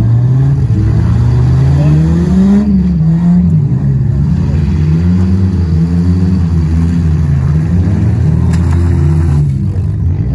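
Race car engine under hard acceleration: its pitch climbs for about two and a half seconds, drops sharply as it shifts or lifts, then rises and falls over and over as the throttle is worked.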